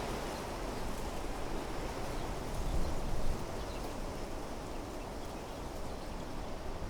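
Wind blowing through trees and shrubs, a steady rushing with a stronger gust about three seconds in.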